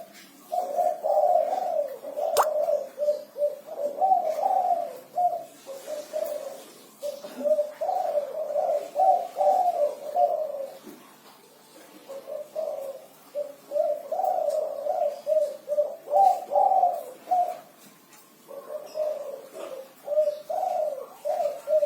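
Spotted dove (derkuku) cooing: low, repeated coo phrases in groups, with short pauses between the phrases, sung in the multi-note 'kuk 5' style.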